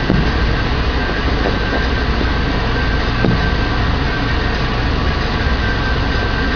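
Steady rumble of car interior noise, with two sharp distant fireworks bangs, one at the very start and one about three seconds in.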